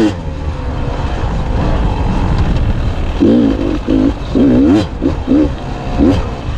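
Beta 300 two-stroke dirt bike engine under way, running fairly steadily at first and then revving up and down in short bursts about every half second as the throttle is worked, over a low rumble.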